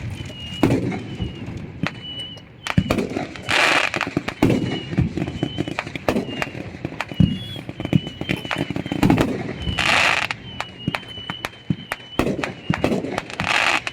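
Fireworks and firecrackers going off: a string of sharp bangs and pops, with three brief bursts of hiss about four, ten and thirteen seconds in.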